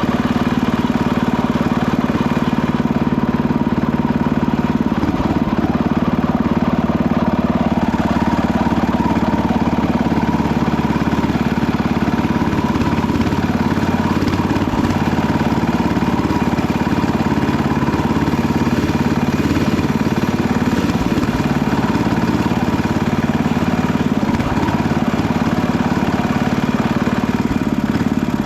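Panzer T70 walk-behind tractor's small gasoline engine running steadily.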